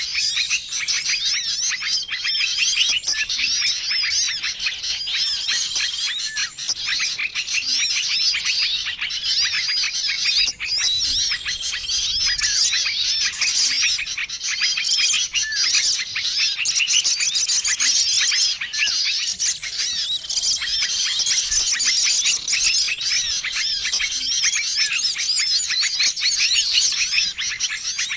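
Dense, noisy chorus of many small songbirds chirping and calling over one another, the mixed-species lure call used to attract small wild birds. A short level whistled note repeats about every two seconds through the chatter.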